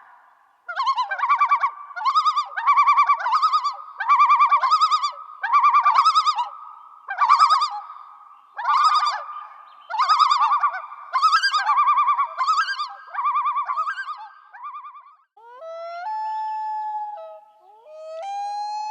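An animal calling: a long run of loud, rhythmic pulsing calls, each phrase a quick stutter of notes, then a couple of longer held wailing tones near the end.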